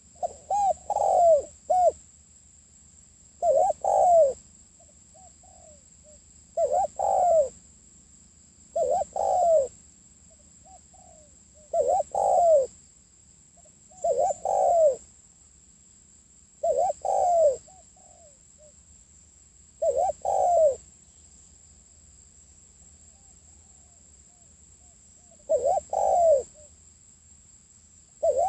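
Spotted dove cooing: short phrases of two or three coos repeated roughly every three seconds, with one longer pause near the end.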